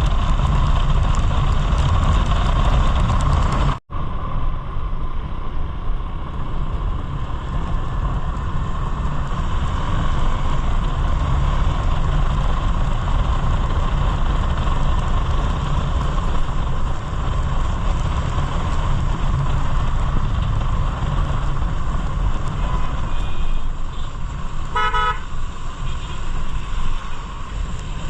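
Steady wind and road rumble of a motorcycle ride, with a short pulsing vehicle horn beep about 25 seconds in. The sound cuts out for an instant about four seconds in.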